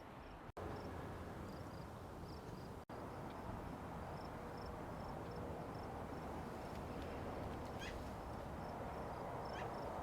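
Outdoor ambience with a low, even rumble and a steady high chirping in short even pulses, about three to four a second, typical of an insect. Near the end come two brief rising chirps. The sound drops out for an instant twice in the first three seconds.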